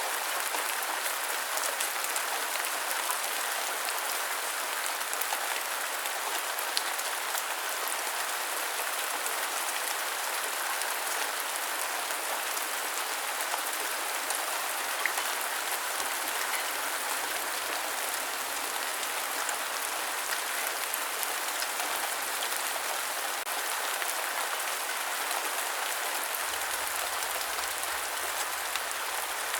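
Steady rain falling, an even hiss with a few faint, sharp drop ticks here and there.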